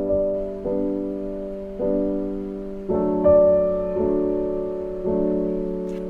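Soft background piano music: chords struck about once a second, each ringing and dying away before the next.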